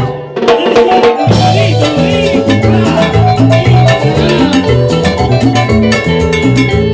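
Live Latin dance band playing, with bass line, percussion and melody instruments. The bass drops out briefly just under a second in before the full band comes back in.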